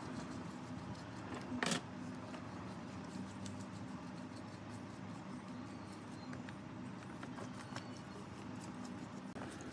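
Small parts or tools being handled, giving light scattered clicks and taps with one sharper knock a little under two seconds in, over a steady low hum.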